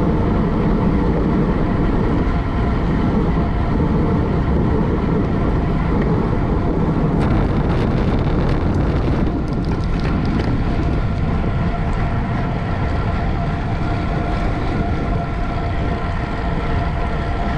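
Steady wind rushing over the microphone of a camera riding along with a bicycle race, with a patch of rapid clicking from about seven to nine and a half seconds in.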